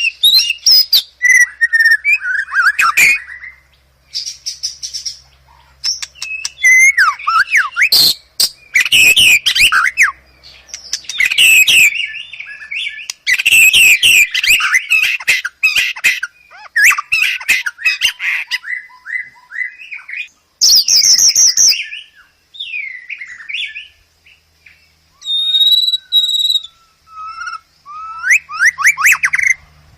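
White-rumped shama singing a varied song: phrases of sweeping whistled notes and rapid trills, one after another with short pauses between them.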